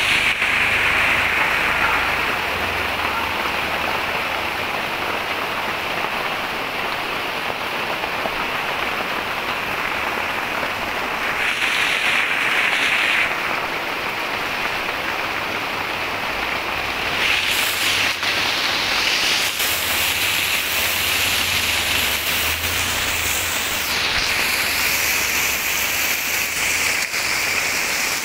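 Heavy rain pouring onto a flooded street, a steady hiss of drops splashing on standing water, swelling briefly a few times.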